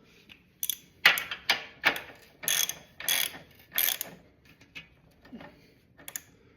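Ratchet wrench clicking in about seven short strokes over the first four seconds, then a few fainter clicks, as a fastener is tightened to even up the exposed threads on either side.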